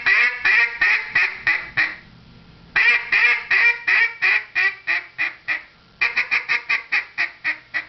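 A duck call blown by mouth, sounding three strings of short quacks, each quack cut off cleanly before the next. The last string is about twice as fast, with the quacks close together, showing a slow string sped up.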